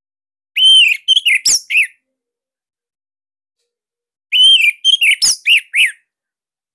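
Orange-headed thrush (anis merah) singing two short phrases about three seconds apart, each an arched whistled note followed by several quick falling, slurred notes.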